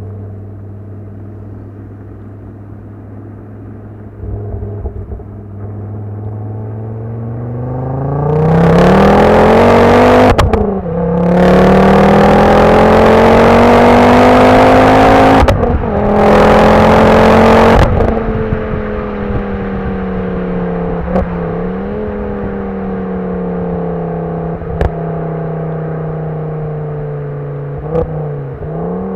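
Ford Focus RS exhaust: the engine idles steadily, then is revved up and held at high revs for about ten seconds with two brief lifts off the throttle. Each lift and the drop back to idle brings sharp backfire pops from the exhaust. It then idles again with a few more occasional pops.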